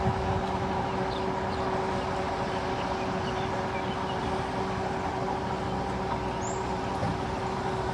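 Boat engine running steadily, a constant drone with a fixed hum.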